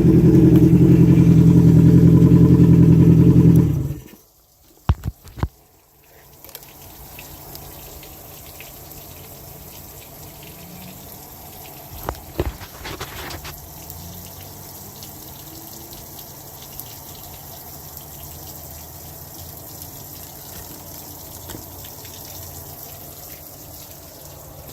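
2018 Yamaha 80 hp four-stroke outboard, an inline four-cylinder, running steadily, then shut off about four seconds in. A few sharp clicks follow, then a quiet steady background with a short cluster of knocks around twelve seconds.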